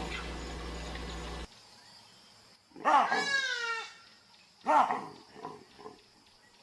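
An animal calling: a drawn-out whining call about three seconds in, a shorter call near five seconds, then a few faint short calls. A steady low hum cuts off abruptly about one and a half seconds in.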